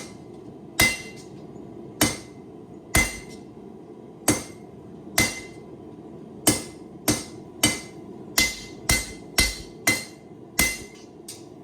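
Hand hammer striking a hot 8670 high-carbon steel blade blank on an anvil, drawing out the point. There are about fifteen blows, each with a short metallic ring: a second apart at first, quickening to about two a second in the second half.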